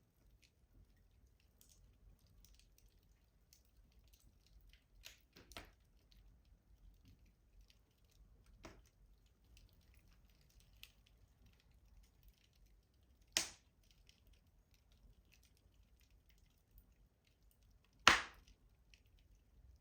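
Wood fire burning in a rustic stove: mostly quiet, with a few faint crackles and two sharp, loud pops, one about two-thirds of the way through and one near the end.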